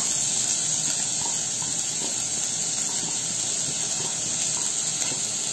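Chopped onion sizzling in hot bacon fat in a non-stick pot: a steady, even frying hiss.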